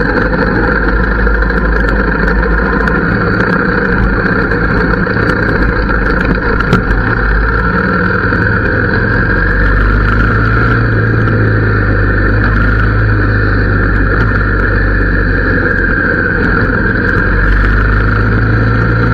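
Harley-Davidson V-twin engine running steadily through its exhaust, with a constant low engine note and no sharp revs.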